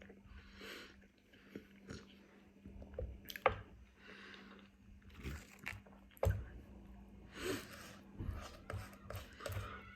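A person chewing and biting food close to the microphone: irregular crunches, wet mouth clicks and swallowing sounds, with one sharp click about three and a half seconds in.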